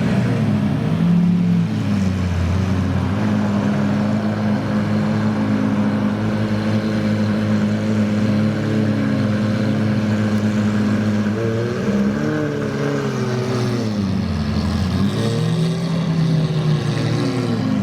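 Supercar engine idling steadily, then revved in several throttle blips that rise and fall back in the second half.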